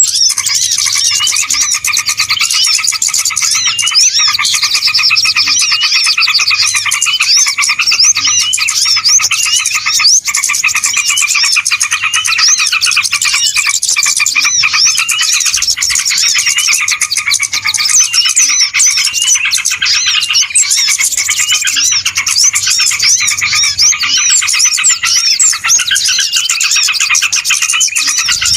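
A loud, unbroken chorus of many small birds chirping and twittering at once, their high calls overlapping densely: a bird-luring (pikat) recording of noisy small-bird calls, played to draw small birds in.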